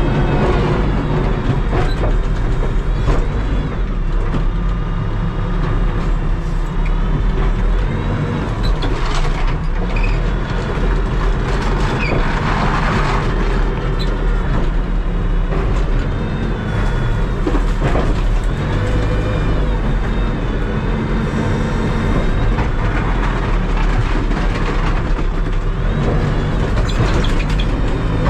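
Terex TLB-815 backhoe loader's diesel engine running steadily under load, with a whine that rises and falls again and again as the hydraulics work.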